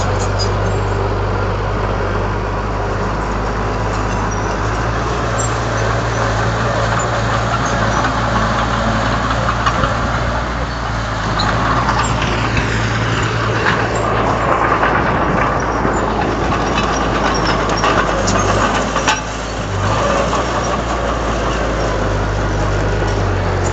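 Komatsu D31 bulldozer's diesel engine running steadily, with a louder stretch of mechanical noise in the middle and a brief drop in level a few seconds before the end.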